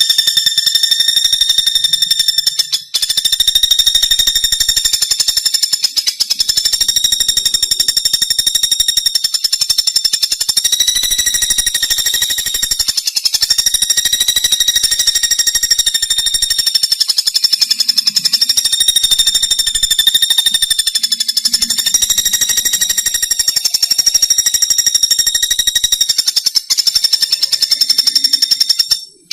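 Pelatuk bawang woodpecker calling: a loud, high, very rapid rattling trill held for long stretches, with a few brief breaks.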